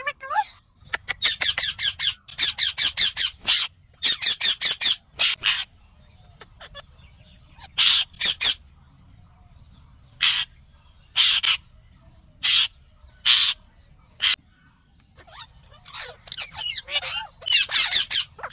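Ringneck parrot calling: fast runs of short, sharp chattering calls, then single loud screeches about a second apart, and more quick chatter near the end.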